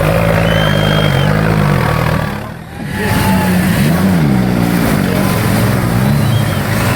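Off-road vehicle engine revving, its pitch rising and falling again and again, easing off briefly about two and a half seconds in.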